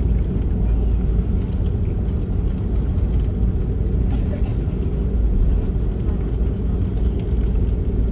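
Steady low rumble inside the cabin of an Airbus A330-300 airliner on the ground before takeoff, with a few faint clicks.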